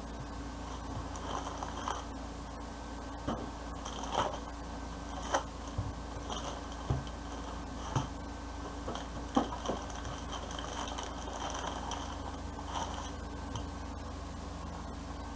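Hands handling the power supply and its packaging: scattered light clicks, taps and scrapes, a few seconds apart, over a steady low background hum.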